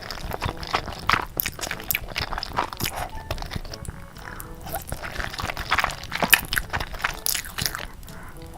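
Someone eating Korean instant noodles: chewing and biting with many irregular short wet clicks and smacks.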